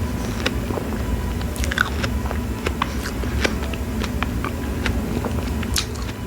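Close-miked chewing of fresh strawberries with whipped cream: many small, sharp mouth clicks at an uneven pace, over a steady low hum.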